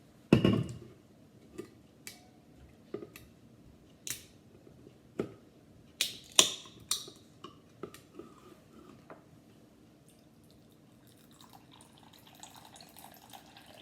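Coconut water being added to a bowl of frozen berries: a dull knock, then scattered light clicks and drips, and a faint trickle of liquid near the end.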